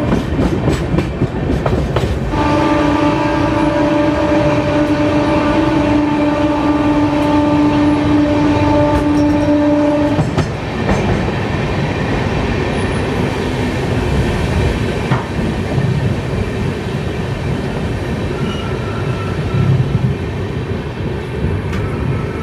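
Express train running, its wheels and coaches rumbling and clattering, heard from an open coach door. A locomotive horn sounds in one long steady blast of about eight seconds starting a couple of seconds in, and the rumble carries on after it stops.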